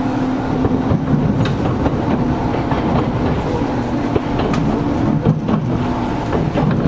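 Interior running sound of a Gakunan Railway 7000-series electric railcar: a steady rolling rumble and hum from the wheels and running gear, with scattered sharp clicks and knocks from the track. The car's air conditioning is running.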